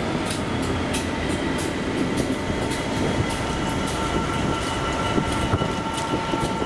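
Train running past, its wheels ticking over rail joints in a steady stream of short clicks, over a rumble, with a faint steady high whine.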